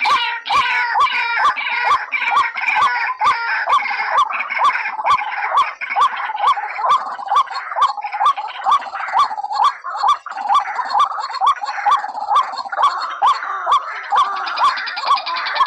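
White-breasted waterhen calling: a fast, insistent series of rising 'ruak' notes, about three a second, as played on a lure-call recording. Sharp regular clicks run through it.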